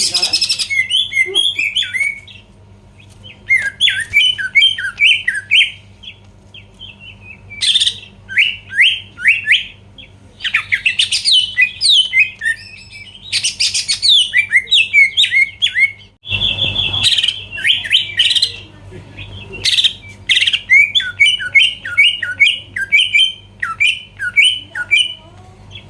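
Cucak ijo (green leafbird) singing hard: runs of quick, downward-sweeping whistled notes, repeated in phrases and broken by several harsh, buzzy bursts. A low steady hum runs underneath.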